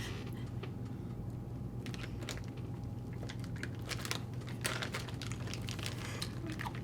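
Plastic packaging crinkling and crackling in short, scattered bursts as a bag of baking truffles is handled and opened, over a steady low hum.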